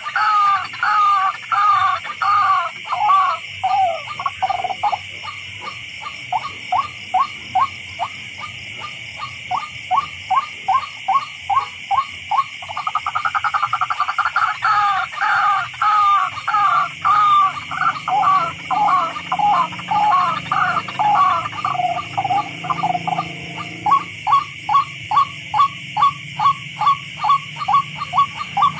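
Tikling (a rail) calling: long runs of short, hooked, croaking notes, about three or four a second, in several bouts with brief pauses. A steady high hiss runs behind.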